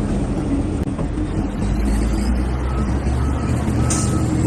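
Heavy truck engine running steadily, with a short high beep that repeats several times in the second half.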